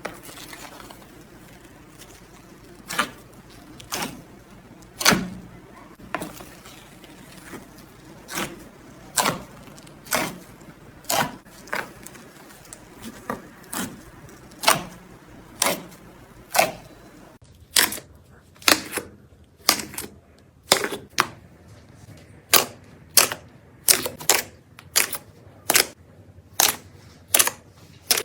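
Slime being pressed and worked, giving sharp clicking pops about once a second. About two-thirds of the way through, the background goes quieter and the pops come faster, about two a second.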